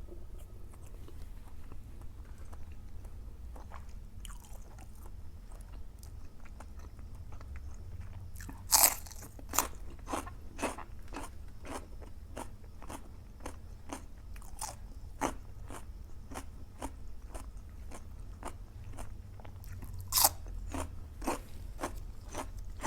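A person chewing soft cartilage close to the microphone, a steady run of wet crunches at about two to three a second, with two sharper, louder crunches near 9 s and 20 s. A faint low hum runs underneath.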